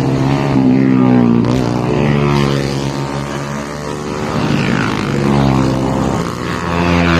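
Motorcycle engine running under way, its pitch rising and falling several times as the revs change, over steady road and wind noise.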